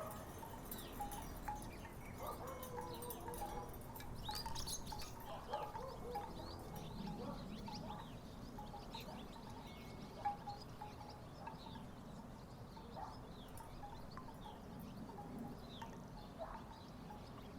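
Wooden tiki wind chimes knocking together in the breeze: irregular hollow clacks, busier in the first few seconds and sparser later.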